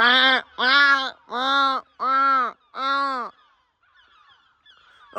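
A crow cawing five times in a row, about one harsh caw a second, with fainter bird calls behind.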